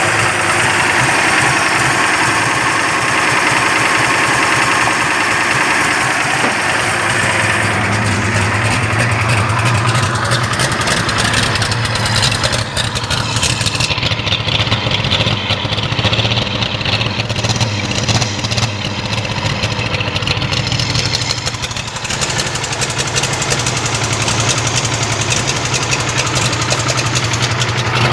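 1946 Chevrolet truck's 235 six-cylinder engine running at idle, its low hum growing heavier partway through and shifting again later.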